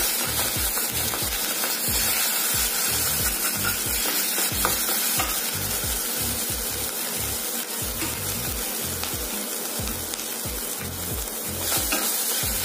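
Ginger and garlic paste sizzling steadily in a spoonful of hot oil in a metal kadai, with a wooden spatula scraping and stirring it around the pan in repeated strokes.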